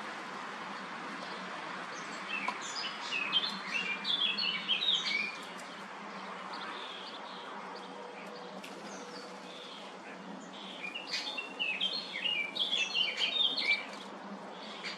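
Songbirds chirping in two bursts of quick, high chirps, a few seconds each, with a quieter stretch between.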